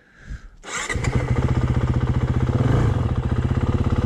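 Honda CRF450X dirt bike's single-cylinder four-stroke engine being restarted: after a brief quiet spell it catches about a second in, then runs with a steady rapid pulsing beat.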